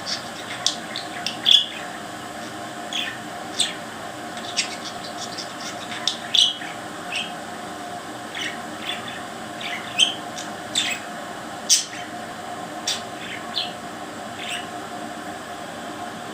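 Pet parrot giving short, high chirps and squawks at irregular intervals, over a steady hum.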